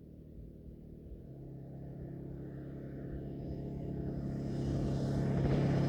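A steady low engine hum at an even pitch, growing steadily louder.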